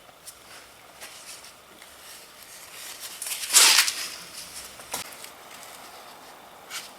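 Motorcycle engine oil splashing into a drain pan as the drain plug is turned out by hand, with a loud rush about three and a half seconds in after a few small clicks, and a sharp click about a second later.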